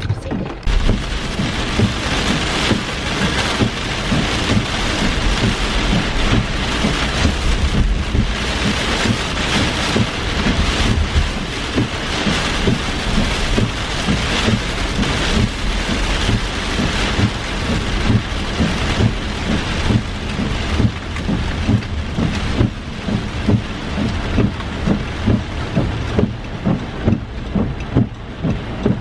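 Heavy rain pelting a moving car's windshield and roof, heard from inside the cabin, over a low road rumble. In the second half a regular pulse of about one a second comes from the windshield wipers sweeping.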